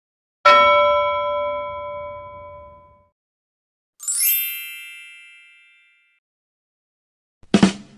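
A bell-like ding struck once and ringing out for about two and a half seconds, then a bright, high twinkling chime that sweeps down and fades. Near the end a short, sudden burst starts the next effect.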